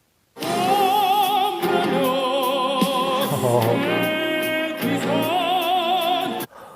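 Male voice singing in an operatic style: long held notes with a wide vibrato, the line dipping in the middle and climbing to a last sustained note, which cuts off near the end.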